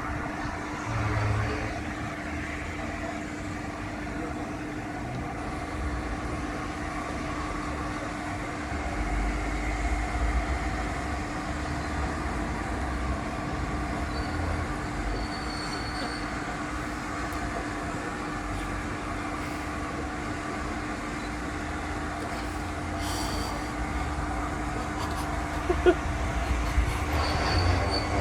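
A train moving on the rails: a steady rumble with a constant hum.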